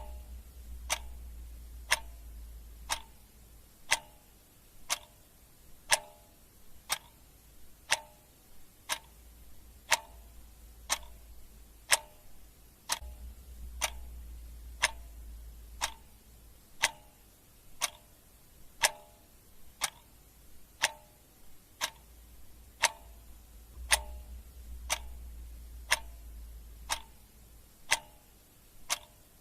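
Clock ticking sound effect: sharp ticks, one every second, evenly paced.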